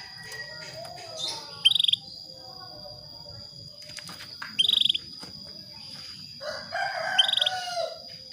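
Female canary giving short, rapidly pulsed call notes, three times a few seconds apart, the calls a hen in breeding condition uses to draw a male into song. A steady high thin tone runs underneath, with softer twittering between the calls.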